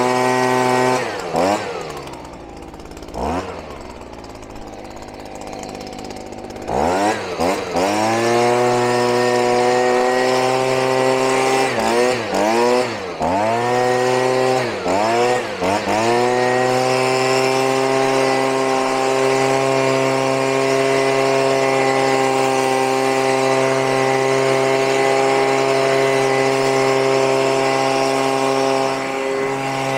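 Two-stroke chainsaw engine blipped up and down a few times, dropping to idle about two seconds in, then revved again; after more blips it is held at steady high revs for the second half.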